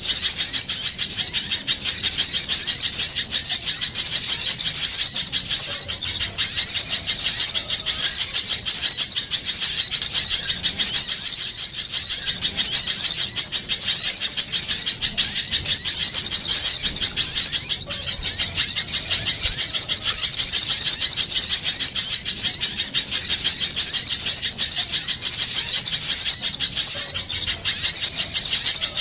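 A noisy chorus of many small birds chirping and twittering rapidly and without pause: a bird-trapping lure call of small birds in a commotion.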